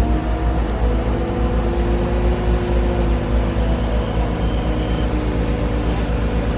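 The engine of heavy equipment runs steadily with a deep rumble, its pitch shifting slightly as the machine works to lift a section of wrecked dock.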